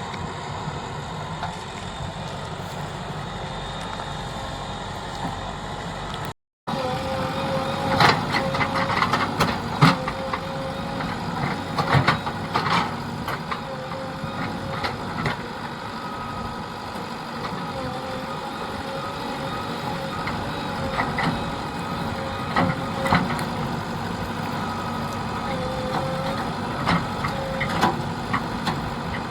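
JCB 3DX backhoe loader's diesel engine running steadily while it loads soil, with scattered clanks and thumps from the bucket and earth, most of them from about eight to thirteen seconds in.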